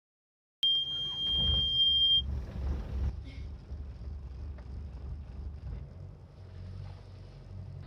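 A sailboat's engine running with a steady low rumble; as it begins, a high steady electronic beep sounds for about a second and a half and stops.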